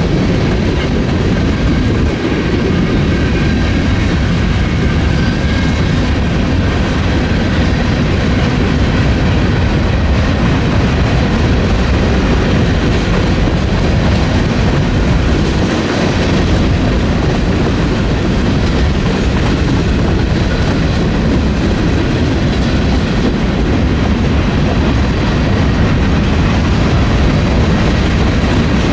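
Freight train cars rolling past close by, a steady, loud noise of steel wheels on the rails.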